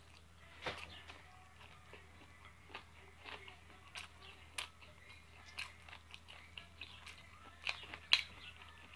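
Close-up eating sounds from a mouthful of baked chicken: chewing with scattered wet lip smacks and small clicks, the sharpest one about eight seconds in.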